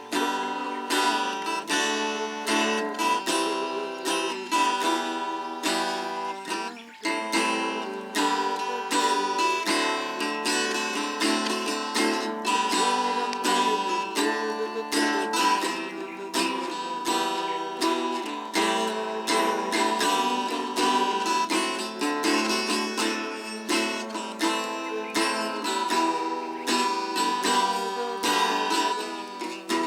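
Acoustic guitar strummed steadily in chords, with a brief break about seven seconds in.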